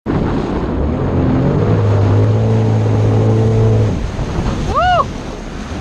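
Jet ski engine running steadily over water and wind noise, then easing off about four seconds in. A short rising-then-falling tone sounds just before the end.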